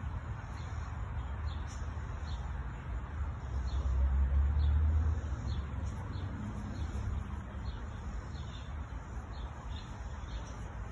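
A small bird chirping over and over, about twice a second, over a steady low rumble that swells for about a second near the middle.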